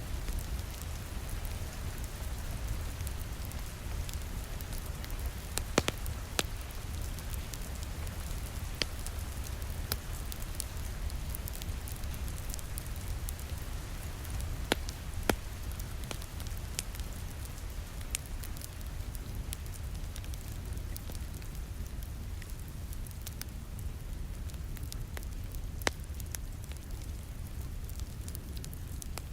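Crackling wood fire in a fireplace with scattered sharp pops, the loudest a few seconds apart, over steady rain.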